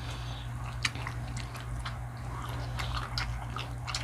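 Close-miked chewing of food, with many small, sharp wet clicks and crackles from the mouth.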